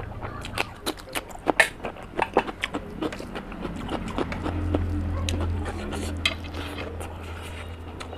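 Close-up crunching and wet chewing of a bitten slice of raw cucumber. A quick run of sharp, crisp crunches comes over the first few seconds, then softer chewing with a low hum for about two seconds in the middle.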